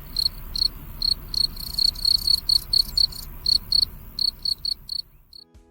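Cricket chirping: short, high chirps repeated a few times a second, stopping shortly before the end.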